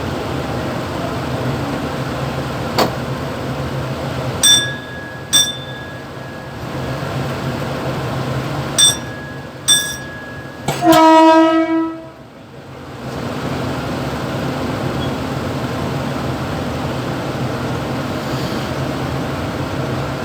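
Mumbai suburban EMU local train running, heard from inside the motorman's cab as a steady rumble. Several short sharp clicks come between about 3 and 11 seconds in. The train's horn then sounds one loud blast of about a second and a half.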